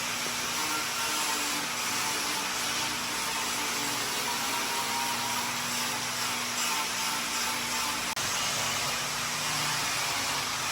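Steady whirring of a power tool running continuously during woodworking, briefly cutting out for an instant about eight seconds in.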